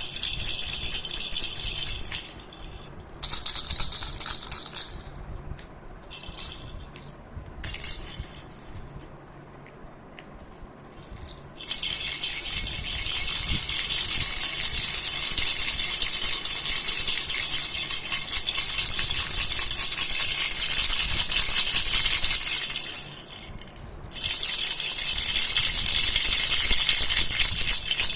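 A baby rattle (jhunjhuna) shaken in spells: a short shake, a burst a few seconds in and a few brief shakes, then a lull of a few seconds. Steady fast shaking follows for about eleven seconds, stops briefly, and starts again near the end.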